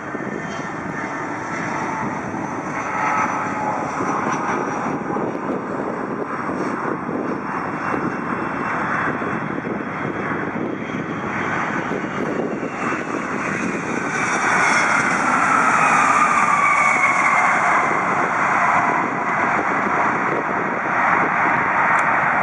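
Boeing 757-200 jet engines passing close by, a steady rushing roar. About two-thirds of the way in it grows louder and a whine glides down in pitch as the airliner goes past.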